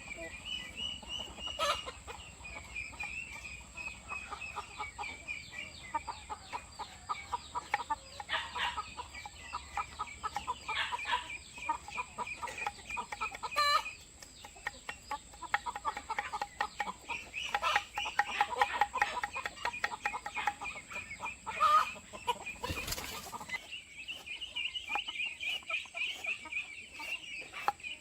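Flock of laying hens clucking in runs of short repeated calls, with a wavering high trill above them and a few sharp clicks.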